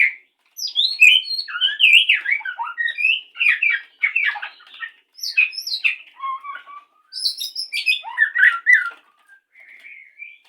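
White-rumped shama singing a fast, varied courtship song of whistles and chirps in dense phrases, tailing off to a few softer notes near the end.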